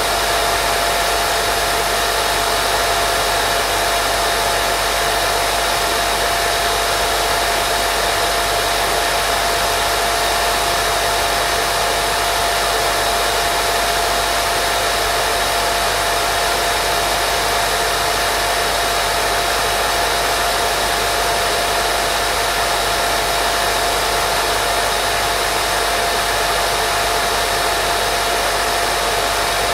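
Steady white noise for baby sleep: an unbroken, even hiss with a faint steady tone running through it.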